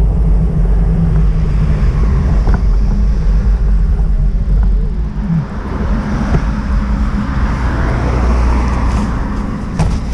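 Loud, steady low rumble of a vehicle, with a rushing hiss that swells in the second half.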